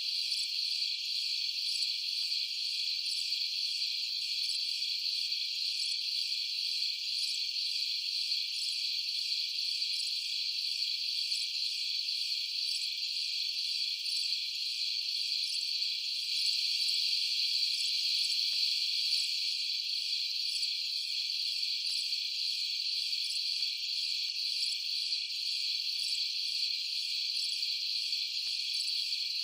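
Crickets chorusing at night, a dense, steady high-pitched chirring with nothing low beneath it.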